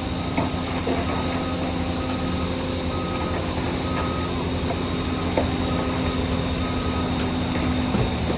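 Heavy earthmoving machinery's diesel engine running steadily, with a reversing alarm beeping about one and a half times a second and a few brief metallic knocks.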